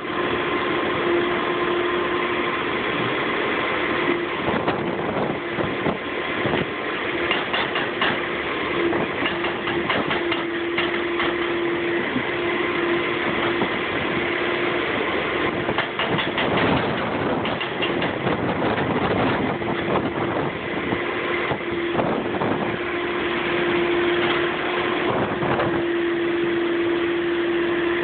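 Heavy diesel construction machinery, a Cat excavator and wheel loader, running steadily with a constant whine. Several bursts of clattering knocks partway through, typical of concrete being broken and moved.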